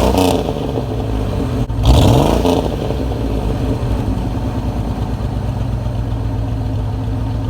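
Car engine revved twice, rising in pitch at the start and again about two seconds in, then running steadily.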